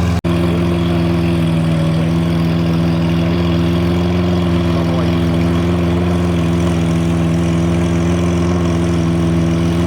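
Car engine and exhaust droning steadily at a constant pitch, with a low, even hum. The sound cuts out for an instant near the start.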